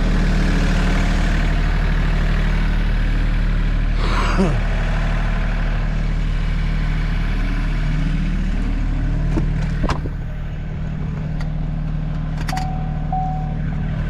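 A large engine running steadily at a constant speed. About four seconds in there is a short falling sweep, near ten seconds a sharp click, and near the end a brief steady beep.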